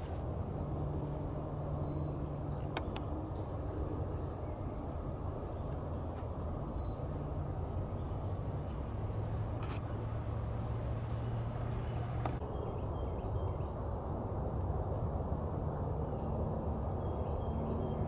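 A bird repeating a short, high note about twice a second, with other faint bird calls later, over a steady low rush of woodland ambience. There are a few faint clicks.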